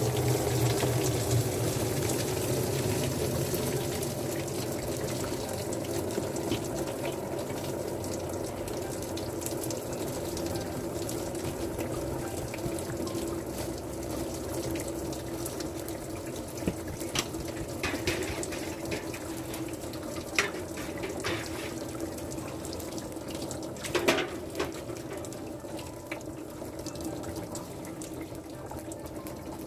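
Steady rush of running or churning liquid, with a few sharp clicks and knocks in the second half.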